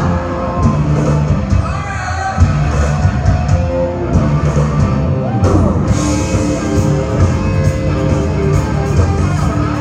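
Rock band playing loudly, with electric guitar and a singing voice.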